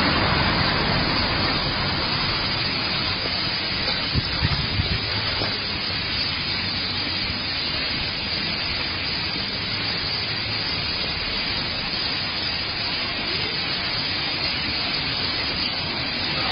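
A large flock of small birds calling all at once in a tree, their chirps merging into one dense, steady chatter like a hiss.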